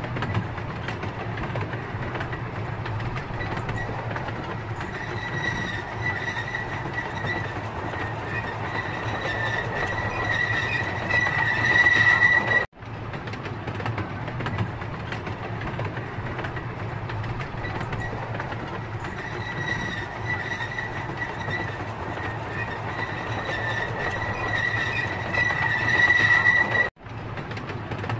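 Miniature railway train running with passengers aboard: a steady rumble of wheels on the track with a high wheel squeal that grows louder, then cuts off suddenly, twice.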